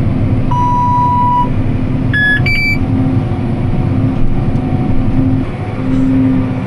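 Tractor engine running steadily while pulling a round baler, with electronic beeps from the cab monitor: one long beep about half a second in, then two short, higher beeps a little after two seconds.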